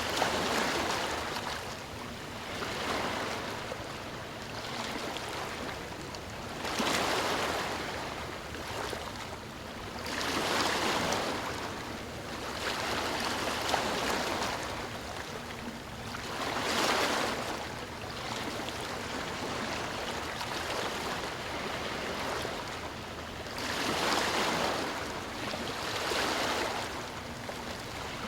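Sea waves washing onto the shore in repeated swells, about eight surges each rising and falling over a second or two, with a steady hiss of surf between them and a calmer stretch in the second half.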